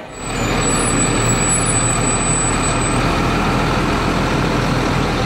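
Bus engine running steadily, a loud, even mechanical noise with a low hum.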